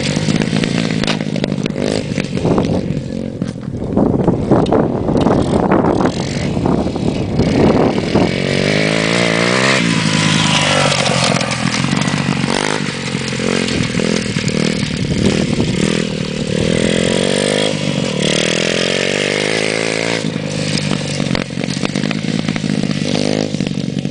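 Motocross bike engine running and being revved, its pitch rising and falling repeatedly.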